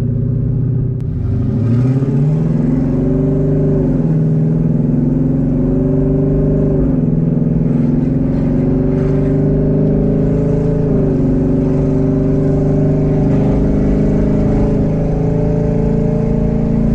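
Twin-turbo Mustang with open exhaust dumps accelerating hard. The engine note climbs in pitch, drops at upshifts about 4, 7 and 11 seconds in, then climbs steadily again. The exhaust is loud.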